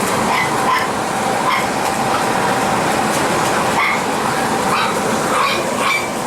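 Several Shih Tzu puppies yipping and barking over and over, over a loud steady background noise.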